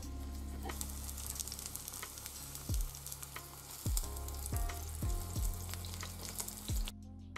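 Eggplant slices sizzling in hot oil in a frying pan, a steady crackling hiss that cuts off suddenly near the end. Background music with a steady beat plays underneath.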